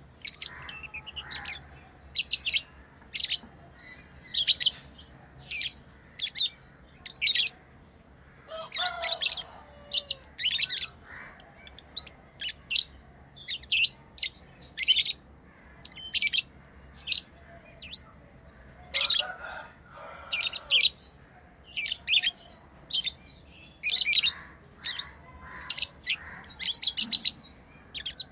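Pet lovebirds chirping: a steady run of short, sharp, high-pitched chirps, about one or two a second, with softer, lower chattering now and then.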